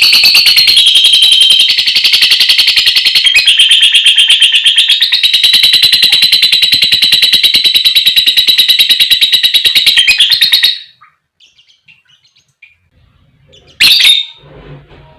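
Lovebird giving a long, rapid chattering trill (the 'ngekek panjang'), a fast run of shrill notes that cuts off about ten and a half seconds in. After a short quiet, one sharp squawk comes near the end.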